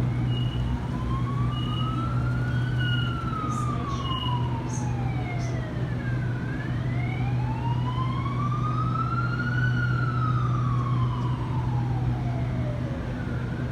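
An emergency-vehicle siren wailing slowly, twice rising over about three seconds and falling again. Beneath it runs a steady low hum, with a few short high beeps in the first few seconds.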